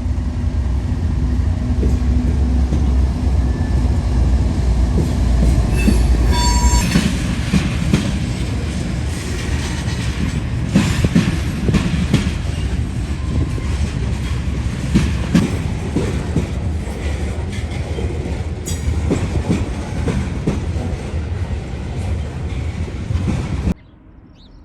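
CSX freight train passing close by on a curved connection track. Deep diesel locomotive rumble at first, with a brief high-pitched squeal or tone about six seconds in. Then the freight cars roll by with irregular clatter and knocking over the track. The sound cuts off abruptly near the end.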